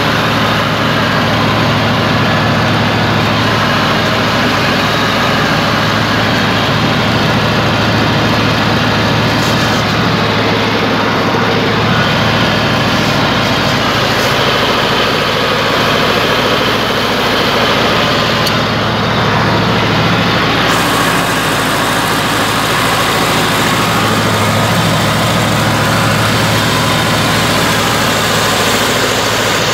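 Deutz F2L912 two-cylinder air-cooled diesel engine of a homemade tractor running steadily at a low, even speed.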